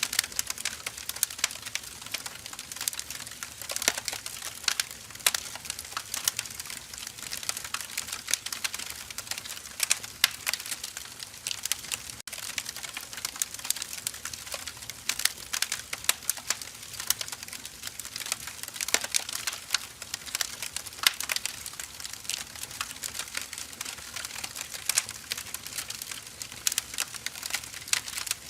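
Burning firewood crackling: a constant run of small, irregular snaps and pops, with a louder pop every few seconds.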